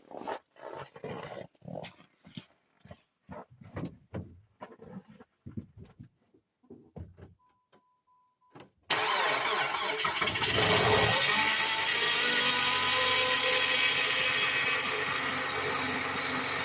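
Scattered knocks and clicks, then a short steady beep, then about nine seconds in the Dodge Avenger's engine cranks in sub-zero cold and catches within about two seconds. It settles into a loud, steady fast idle, a harsh cold start that the owner says did not sound good.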